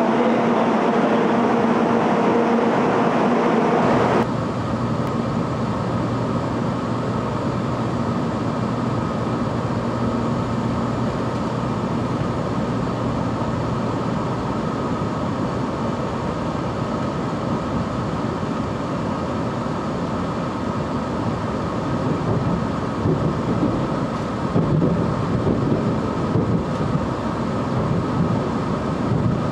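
Sanyo Shinkansen train heard from inside the passenger cabin as it pulls out of the station and gathers speed: a steady rumble and rushing noise with a low hum, growing louder in the last several seconds. The first four seconds are a different, louder sound with a steady hum that cuts off abruptly.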